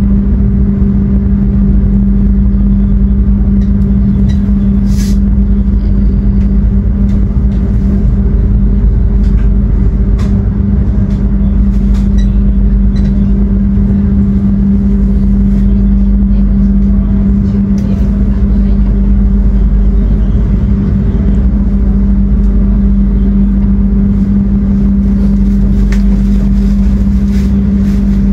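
Steady, loud low hum heard inside a passenger train's coach while it stands at a station, unchanging throughout, with a few faint clicks.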